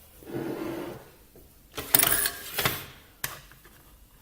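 Plastic clicks and rattling as a Krups Nespresso machine and its used coffee capsule are handled, with a sharp click about two seconds in followed by a second of scraping, and another click a moment later.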